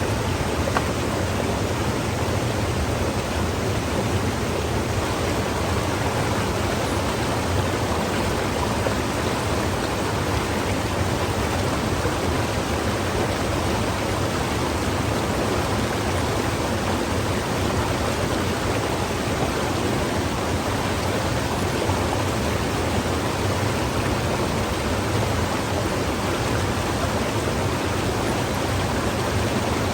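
A steady, unbroken rushing noise at an even level.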